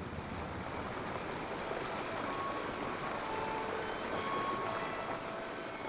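Steady, even rushing ambient noise, with soft held music notes fading in from about two seconds in.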